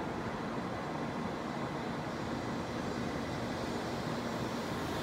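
700 series Shinkansen train pulling out of the station, its cars rolling past at low speed with a steady running noise.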